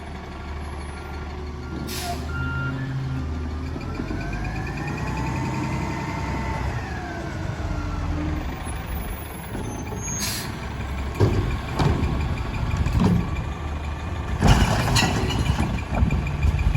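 Garbage truck with a Curotto-Can arm working: its diesel engine runs steadily, a whine rises and falls once, and a reversing alarm beeps. Several sharp clanks and bangs come in the second half, the loudest a few seconds before the end.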